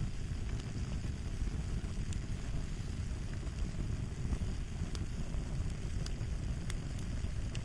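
Crackling fire: a steady low rumble of burning with scattered small, sharp pops and snaps.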